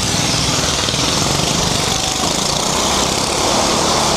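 Engine of a small four-wheeled stunt vehicle running loud and steady as it drives round the Wall of Death.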